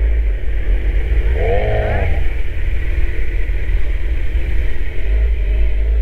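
Kawasaki Z900 inline-four motorcycle running under way, with a heavy low rumble of wind on the microphone. About a second and a half in, a brief pitched sound rises and falls.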